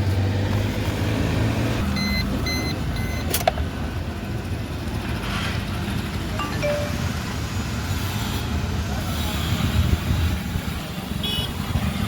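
Steady low rumble of a running vehicle. About two seconds in there are three short high beeps, followed by a sharp click.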